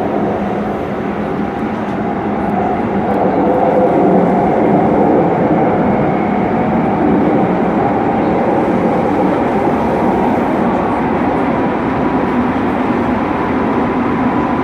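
Hokuso Railway 9100 series electric train running, heard from inside the car: a steady rumble of wheels on rail and running gear. A faint steady whine joins about halfway through.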